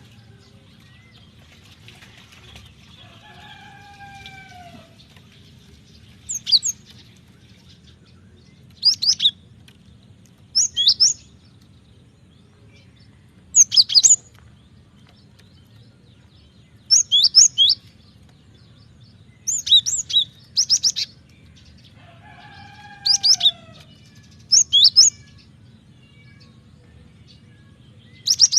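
Cinereous tit (gelatik batu) singing in short bursts of two to four rapid, high, sharp notes repeated every two to three seconds. Twice a lower, drawn-out whistle that curves down joins in. A faint steady hum runs underneath.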